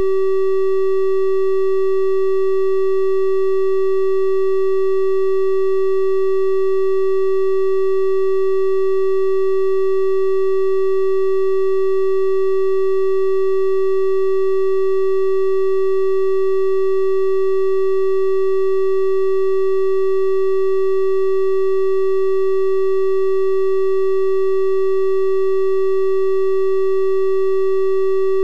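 A steady electronic 384 Hz triangle-wave tone, one unchanging pitch held without a break, with faint higher overtones above it.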